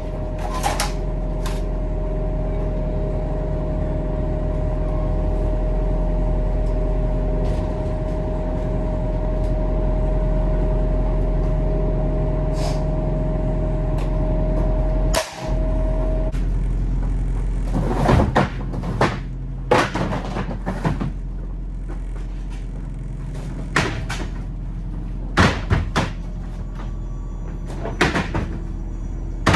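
Steady hum of a running truck with a held tone, which stops about fifteen seconds in, followed by a string of sharp knocks and clatters.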